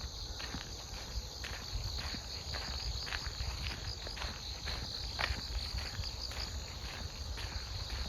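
A steady high-pitched chorus of autumn grass insects such as crickets, with footsteps on a walking path about two a second over a low rumble.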